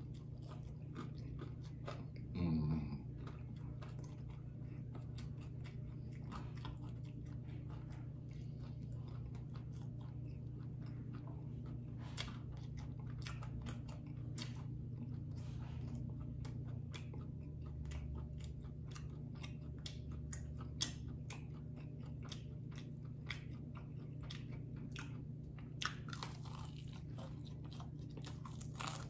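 Biting and chewing crunchy fried chicken wings, with frequent sharp crunches of the fried coating throughout over a steady low hum. A brief vocal sound comes about two seconds in.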